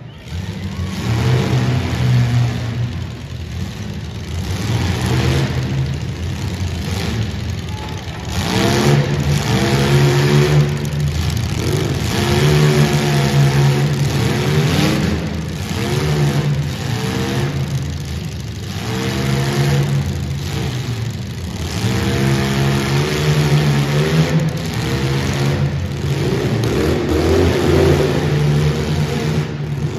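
Compact demolition-derby car engines revving hard, pitch rising and falling in repeated surges as the cars accelerate and back up.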